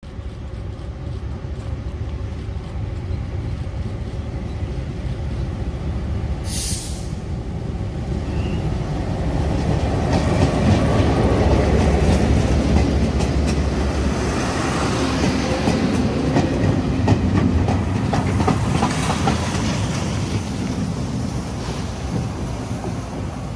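Train with the CK124 steam locomotive, an R47 diesel locomotive and a DRC1000 railcar arriving at a station, with a steady rumble that grows louder as it draws near. There is a short hiss about six seconds in, and wheels clicking over rail joints as it passes.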